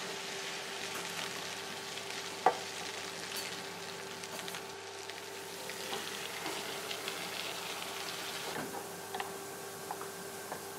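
Beef strips and sliced bell pepper sizzling in oil in a frying pan, stirred with a wooden spatula, with small scraping clicks and one sharp knock on the pan about two and a half seconds in. Chopped tomatoes go into the pan and the sizzle grows quieter near the end.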